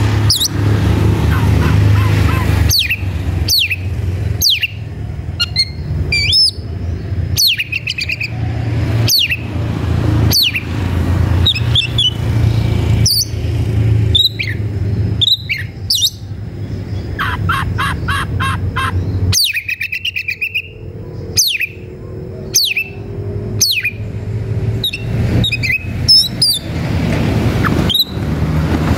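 Oriental magpie-robin (kacer) singing loudly: a string of sharp, falling whistled notes with a fast rattling run of repeated notes past the middle. This is the agitated song of a bird in fighting mood. A steady low hum runs underneath.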